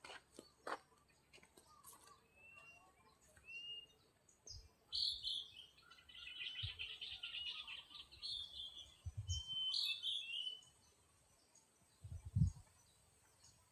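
Small birds chirping, with a rapid run of chirps lasting several seconds through the middle. A few short low thumps, the loudest near the end.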